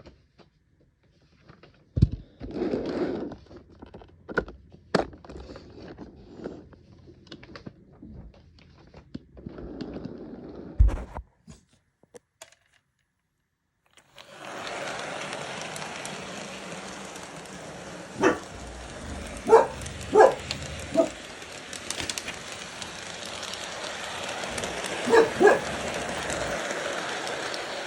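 Scattered clicks and knocks of handling, then a steady hiss from about halfway through, over which a dog barks in short bursts several times.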